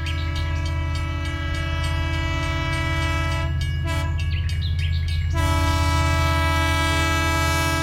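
Train horn held in one long steady chord over a deep rumble. The upper notes thin out for a couple of seconds in the middle, then return.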